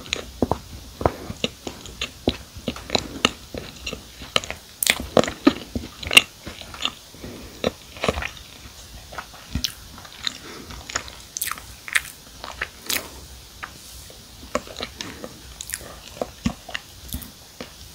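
Close-miked chewing of a soft-baked cookie with marshmallow: irregular wet mouth clicks and small crunches, many a second.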